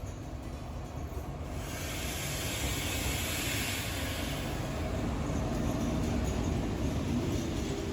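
A train running on the rails, a steady rumble that grows louder, with a hiss coming in about a second and a half in and faint whining tones near the end.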